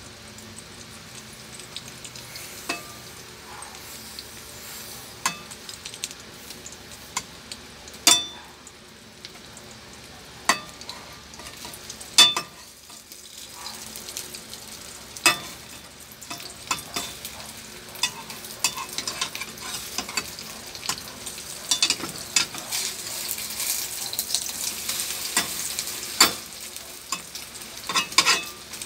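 An egg omelet frying in oil in a nonstick pan, with a steady sizzle that grows louder in the last several seconds. A metal spatula scrapes and knocks against the pan every few seconds, giving sharp taps.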